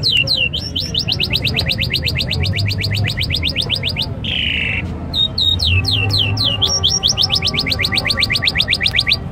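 A bird's call repeated twice: each time a few slow, high, falling notes that quicken into a fast even run of about eight notes a second, lasting some three and a half seconds. After each run comes a short rasping burst.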